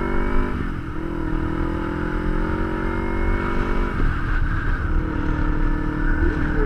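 Kawasaki Ninja 250's parallel-twin engine pulling away under throttle. The pitch climbs, drops sharply twice as it shifts up through the gears, then settles to a steady cruise.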